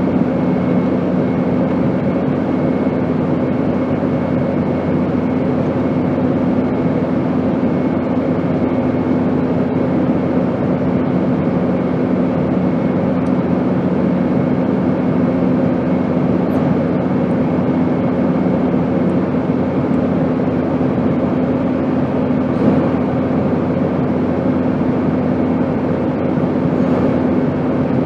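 Steady airplane drone: an even rushing hiss with a steady low hum, and a second, lower hum that fades out about two-thirds of the way through.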